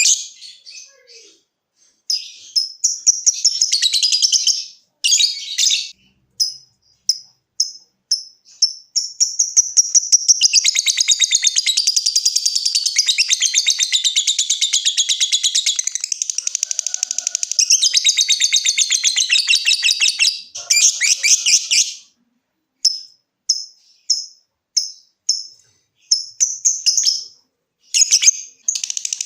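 Lovebird singing: a string of short, sharp high chirps (the 'ngetik'), then from about nine seconds a long unbroken rapid chattering trill of roughly ten seconds (the 'ngekek'), then spaced chirps again with a brief chatter near the end.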